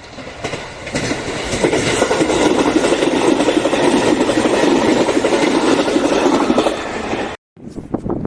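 A Joban Line train passing close by at speed, its wheels clattering over the rail joints in a loud, steady rush that builds over the first second. It cuts off suddenly about seven seconds in.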